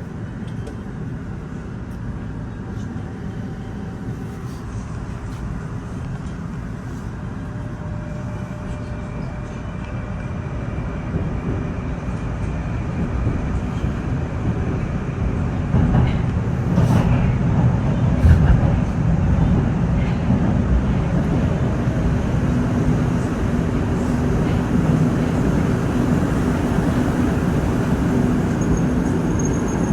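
Moscow Metro train running between stations, heard from inside the carriage: a steady rumble of wheels and running gear that grows louder through the second half as the train gathers speed, with a few sharp knocks a little past halfway.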